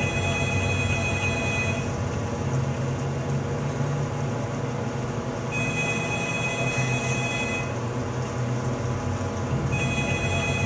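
Telephone ringing: three rings of about two seconds each, roughly four seconds apart, over a steady low hum.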